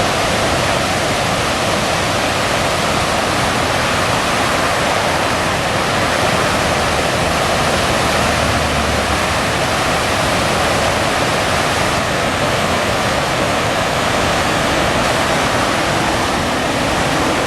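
Man-made park waterfall: water falling and splashing in a loud, steady rush that is very noisy up close.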